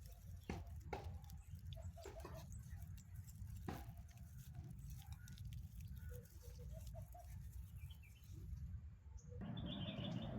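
Quiet outdoor ambience of a walk: a steady low rumble, scattered light taps of footsteps and faint short bird chirps. About nine seconds in, a broader hiss comes in.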